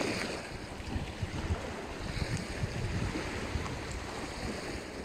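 Strong wind buffeting the microphone in gusts, over the steady wash of waves.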